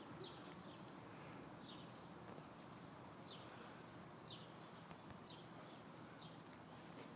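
Faint, short bird chirps repeated roughly once a second, typical of American robins giving alarm calls while mobbing a squirrel, over a low background hiss.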